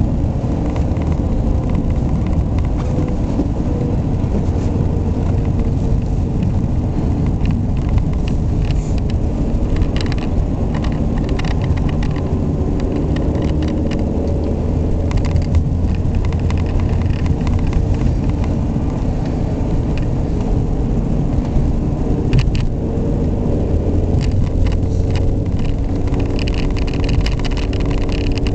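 Ford Mondeo Estate's 1.6 litre petrol four-cylinder engine running under way, together with a steady rumble of tyre and road noise. The engine's tone drifts slowly up and down, with scattered light clicks and knocks over the top.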